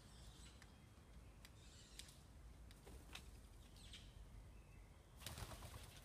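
Faint bird chirps over a low background rumble, with a brief rustling burst near the end.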